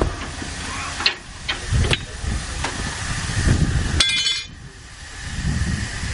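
Narrow-gauge steam locomotive hissing steam, with a few knocks and a brief high squeal about four seconds in.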